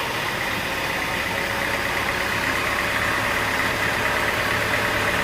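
Sawmill machinery running steadily with a motor or engine hum and a faint high whine, with no cutting heard.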